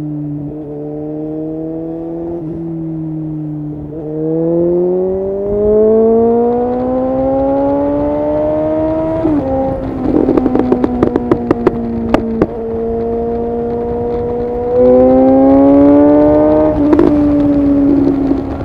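2019 Suzuki GSX-S750's inline-four engine, through a decatted Yoshimura SQ11 exhaust with no dB killer, pulling up through the revs for about five seconds. When the throttle closes it gives a rapid run of sharp pops and crackles on the overrun, then runs steady, pulls again, and cracks a few more times near the end.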